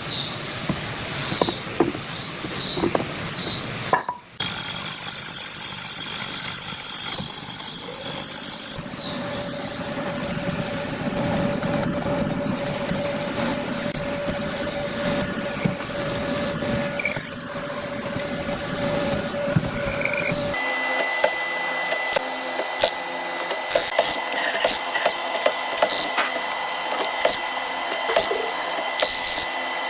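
Workshop power tools running on hardwood, with knocks and clicks of the work. The sound changes abruptly three times, each section with its own steady whine.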